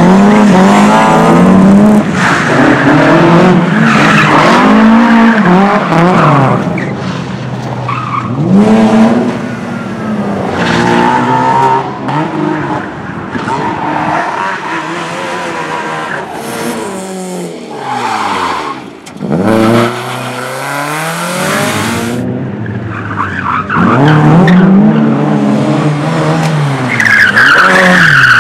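Race car engine revving hard and falling back again and again through gear changes, with tyres squealing and skidding as the car is thrown through the slalom. The engine note drops away briefly near the middle, then climbs back up strongly toward the end.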